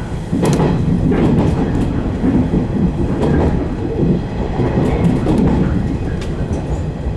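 115 series electric train running along the track, heard from inside the front car: a steady low rumble of wheels on rail with irregular sharp clicks from rail joints.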